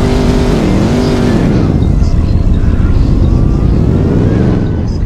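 A car engine revving: its pitch holds, drops about a second and a half in, then climbs again toward the end.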